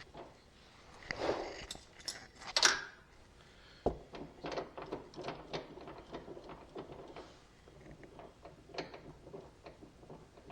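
Hand work on mower parts and tools: a scatter of light metallic clicks and taps, with a louder clunk about two and a half seconds in and a sharp knock about a second later.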